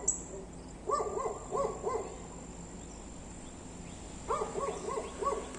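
An animal calling in quick runs of short, pitched notes, four to six notes a run, heard twice: about a second in and again near the end.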